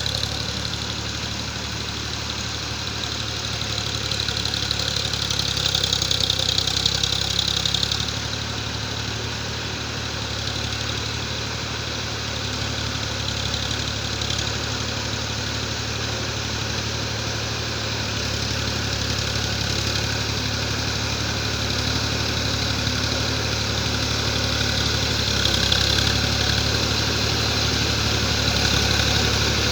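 Swaraj 735 FE tractor's three-cylinder diesel engine running steadily, growing a little louder around a quarter of the way in and again near the end.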